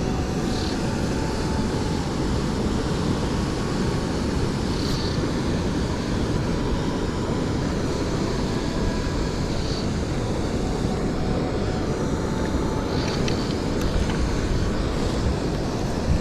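Steady rushing of a small stream's flowing water, mixed with wind buffeting the microphone.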